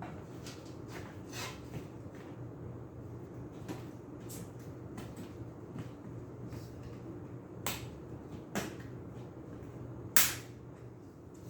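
Scattered metallic clicks and clinks from hand work on a box fan's metal blades, as they are trimmed to stop the fan shaking, with a sharp loud snap about ten seconds in. A low hum runs underneath.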